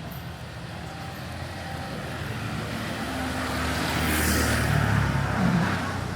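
A motor vehicle passing close by. Its engine grows louder over a few seconds, peaks about four to five seconds in, then fades.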